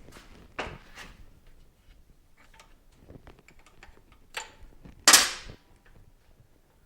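Metal tools and parts clanking and clicking during motorcycle disassembly: scattered light knocks, with one loud sharp clank about five seconds in.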